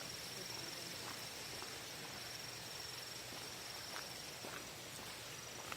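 Insects trilling steadily in one high, thin, unbroken tone over a soft hiss, with a few faint ticks.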